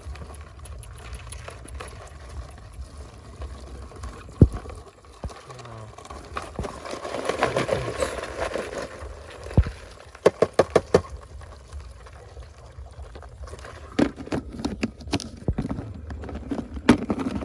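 Wet mud and water squelching and sloshing as the mangrove mud is worked through by hand. There is a quick run of sharp clicks about ten seconds in, and more clicks and knocks near the end.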